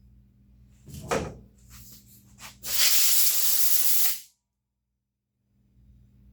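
A sharp knock, then a loud, steady pressurised hiss lasting about a second and a half that starts and stops abruptly, like air or spray being blown through a fuel line or fitting.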